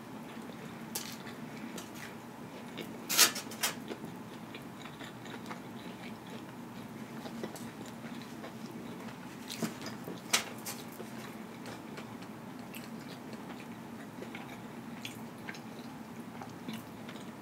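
A person chewing food close to the microphone, a mouthful of samosa, with occasional sharp wet smacks and crunchy clicks, the loudest about three seconds in and again around ten seconds, over a low steady hum.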